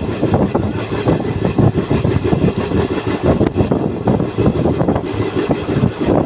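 Moving train running along the track: a loud, continuous rumble of wheels and carriages.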